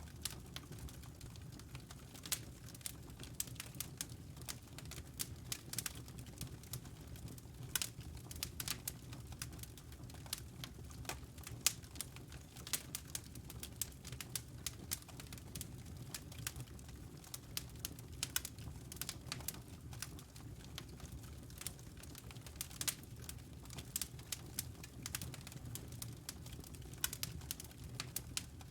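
Wood fire crackling in a stone fireplace: irregular sharp pops and snaps, several a second, over a low steady rumble of the burning fire.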